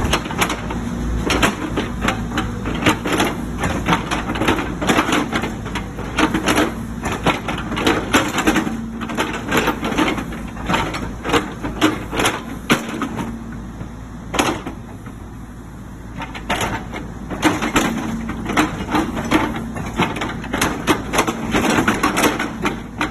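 XCMG excavator at work: a steady engine hum under frequent sharp clanks and knocks, often several a second, easing off for a few seconds midway.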